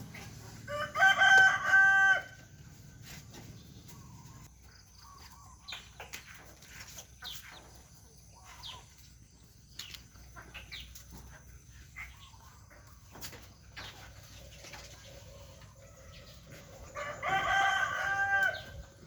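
A rooster crowing twice, about a second in and again near the end, each crow a long call of about a second and a half. Faint short ticks and chirps come in between.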